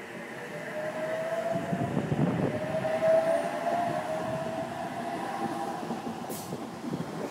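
Sydney Trains H-set OSCAR intercity electric train moving along the platform. Wheel and rail noise grows louder over the first couple of seconds, with a whine that rises slightly in pitch through the middle and a brief hiss about six seconds in.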